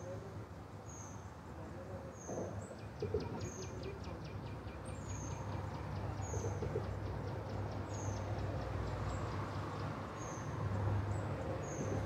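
A songbird repeats a short, high, down-slurred chirp about once a second. For several seconds in the middle a fast, dry ticking trill of about six ticks a second runs alongside. A steady low rumble sits beneath.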